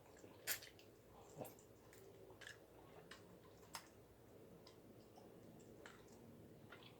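Faint eating sounds: soft chewing with several brief wet clicks and lip smacks spaced a second or so apart.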